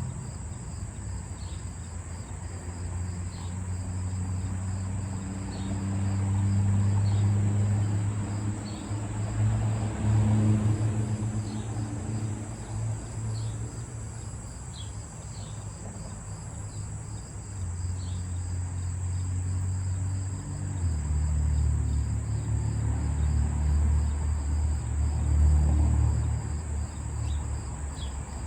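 Steady high-pitched insect chorus with short faint chirps. Beneath it is a low rumble that swells and fades twice and is the loudest sound.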